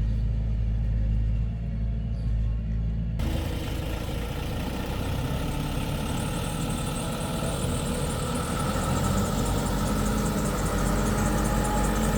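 Heavy diesel engine of a construction machine running steadily; about three seconds in the sound cuts abruptly from a muffled low drone to a fuller, hissier engine sound.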